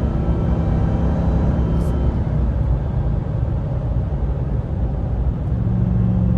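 Ram TRX's supercharged 6.2-litre V8 pickup, towing a trailer, easing off after a hard pull: the engine note drops back under a steady low road rumble. A steady engine tone comes back about five and a half seconds in.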